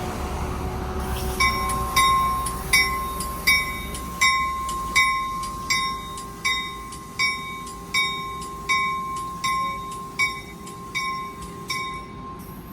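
A railway bell rings steadily, one strike about every three-quarters of a second, some fifteen strikes in all, starting about a second and a half in and stopping near the end. A low train rumble sits underneath in the first few seconds.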